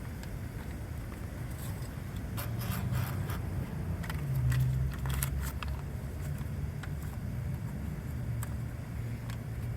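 Car idling in a steady low rumble, with a scatter of short clicks and scraping, rustling handling noises between about two and six seconds in.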